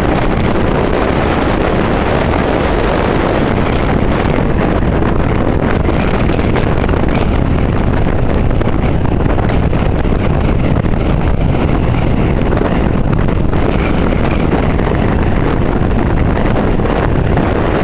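Strong wind buffeting the microphone in a loud, steady rush, mixed with lake waves surging onto the shore.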